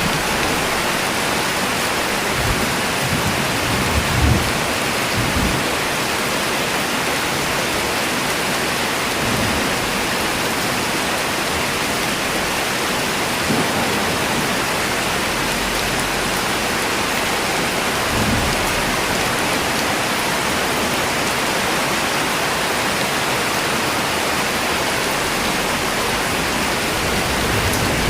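Steady rain falling, an even hiss with no let-up, with a few brief low rumbles now and then.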